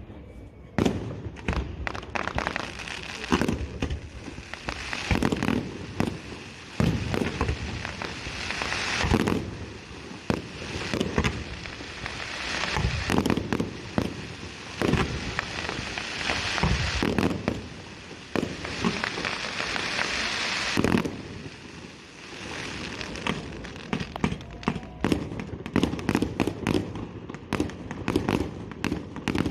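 Fireworks display going off: a steady run of sharp bangs from shells bursting, with stretches of dense crackling between them.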